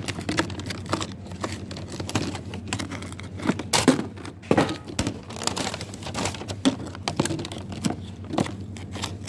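A bag crinkling and rustling, with irregular clicks and knocks, as loose candy is picked into it.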